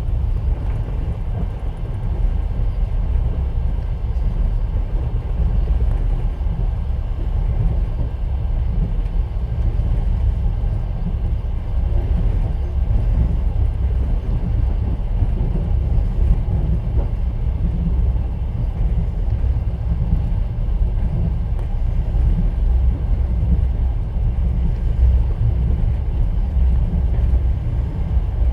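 Steady low rumble of a moving passenger train, heard from inside a platskart sleeper carriage.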